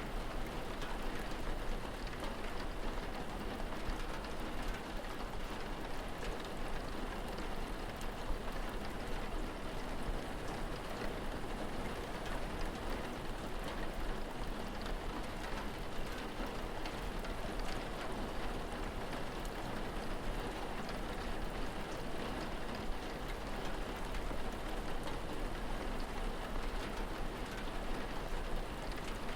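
Steady, even rain falling on surfaces, with faint scattered drop ticks.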